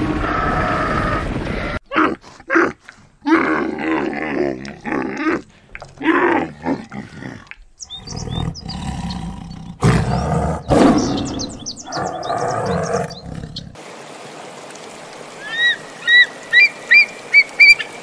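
A flock of sheep bleating, then from about two seconds in a tiger's roars and growls in short, choppy bursts. Near the end comes a bald eagle's quick series of high, piping chirps.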